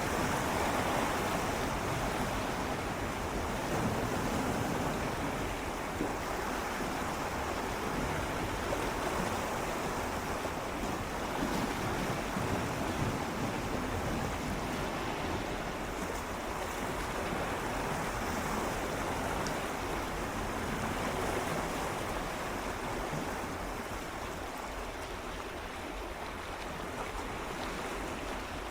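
Gentle sea waves swirling and lapping against shoreline rocks, a steady wash of water with slow rises and falls.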